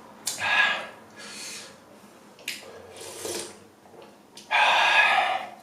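Ramen noodles being slurped: a series of short noisy slurps, with the longest and loudest one about four and a half seconds in.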